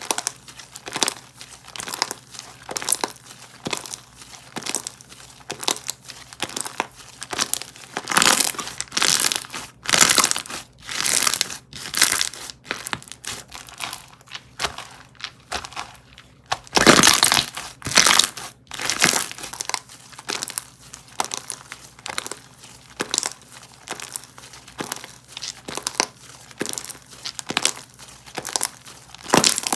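Hands squishing and pressing a textured, cereal-themed slime, giving a dense run of small clicks and pops. There are louder crushing presses around a third of the way in and again a little past halfway.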